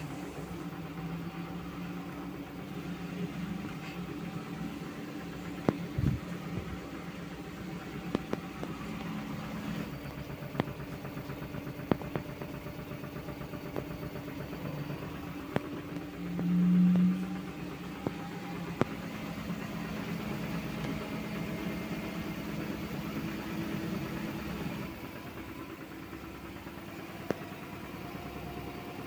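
LG F2T9GW9P front-loading washing machine with its AI Direct Drive motor running through a spin-only cycle: a steady motor hum with a few sharp clicks and knocks from the drum, and a brief louder tone about 17 seconds in. The hum changes level about 10 and 25 seconds in as the drum speed shifts.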